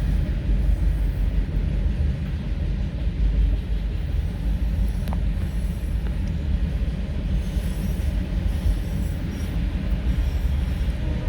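Freight train rolling past, a steady low rumble of its wheels on the rails.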